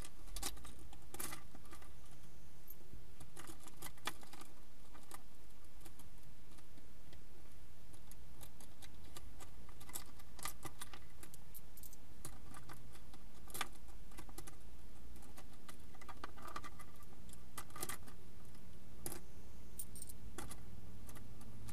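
Steady low hum of a car engine idling, heard inside the cabin of the stationary car, with occasional light clicks at irregular moments.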